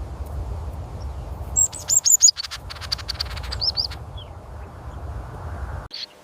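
A small bird chirping in quick runs of high notes between about one and a half and four seconds in, over a steady low rumble. The sound cuts off near the end.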